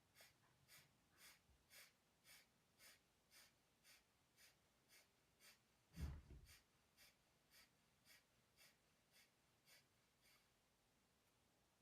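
Kapalabhati breathing: a run of about twenty short, forceful exhalations out of the nose, about two a second, each a brief hiss, with passive inhalations in between. About six seconds in, one louder low thump.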